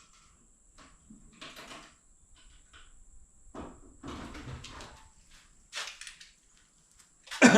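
Toolbox drawers sliding open and shut, with tools clattering as they are handled. A louder drawer slide and clunk comes near the end.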